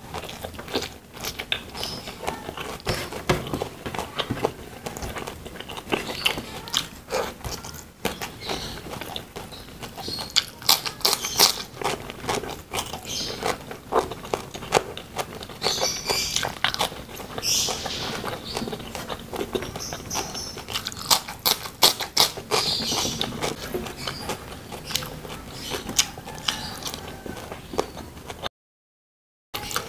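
Close-up eating sounds: a person chewing mouthfuls of rice and battered fried chicken, with many sharp, wet smacking clicks and bits of crunch. The sound cuts out for about a second near the end.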